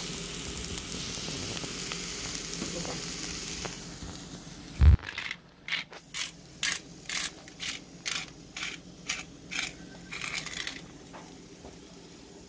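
Chopped vegetables sizzling in an enamelled pot on the stove. A loud thump follows about five seconds in, then about a dozen short, even strokes, roughly two a second, over the pot.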